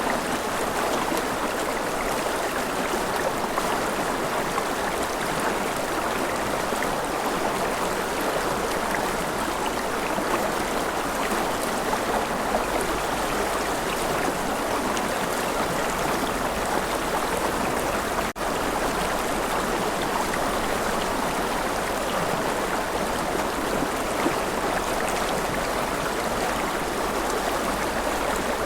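River water flowing steadily, a constant rushing with no rise or fall. It is broken only once by a very brief dropout about two-thirds of the way through.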